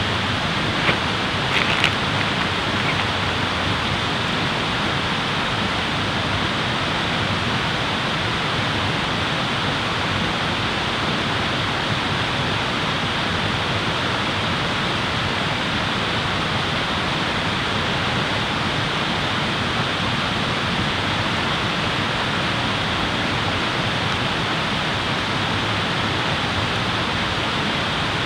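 Steady rushing water, with a few sharp crackles about one and two seconds in.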